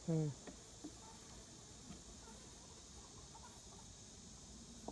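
Faint, steady, high-pitched insect chirring, with a short low hum from a person's voice right at the start.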